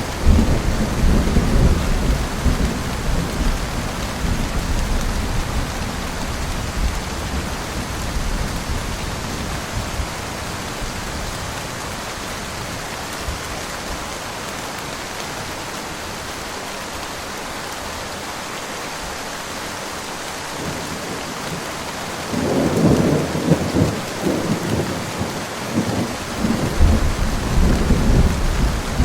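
Steady rain falling, with two long rolls of thunder: one rumbling from the start and fading away over about ten seconds, and another starting about two-thirds of the way in and running on near the end.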